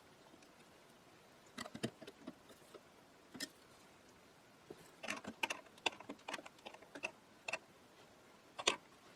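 Light, irregular clicks and taps of small parts and hand tools being handled. The clicks are sparse at first and cluster about five to seven seconds in.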